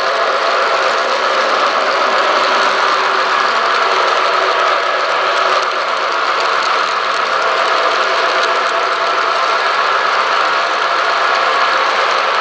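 Model train running on the layout: a loud, steady mechanical sound with a hum of several held tones, unbroken throughout.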